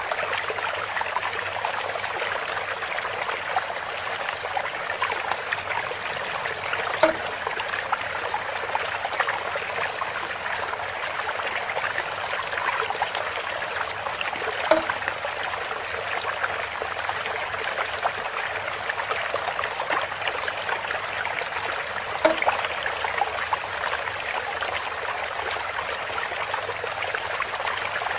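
Water trickling steadily through a bamboo spout, with a brief louder plop about every seven and a half seconds.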